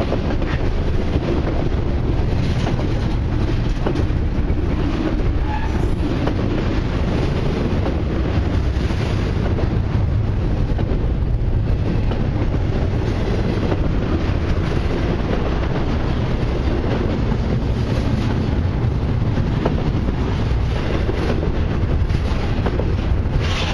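Double-stack intermodal well cars of a long freight train rolling past at close range: a steady rumble of steel wheels on the rails, with intermittent clicks.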